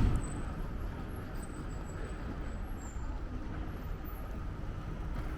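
City street ambience: steady traffic noise with a short, sharp thump right at the start.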